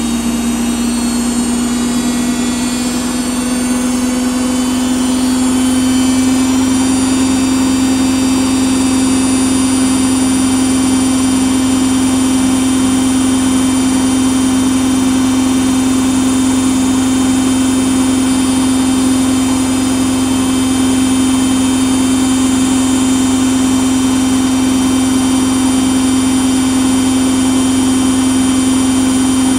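Samsung washing machine spinning its drum at speed, a continuous motor hum and whine that rises slightly in pitch and loudness over the first few seconds, then holds steady.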